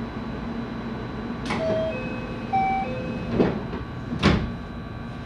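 Inside a JR West 223-series electric train: a steady car hum with a low droning tone, broken by three sharp knocks and a few short tones of different pitches about two seconds in.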